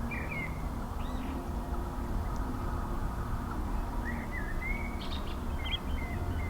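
A bird singing short warbling phrases, once at the start and again about four seconds in, over a steady low rumble.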